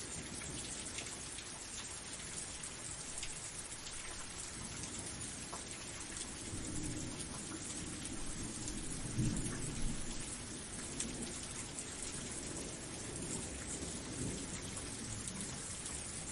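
Steady rain falling, with a low roll of thunder that swells about halfway through, loudest around nine to ten seconds in, and then fades.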